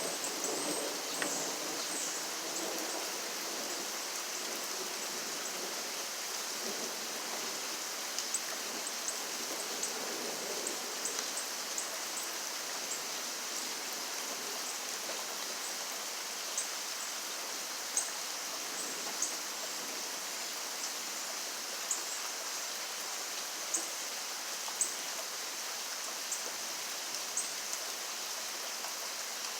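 Steady rain falling, an even hiss with scattered sharp drips and taps of drops landing close by.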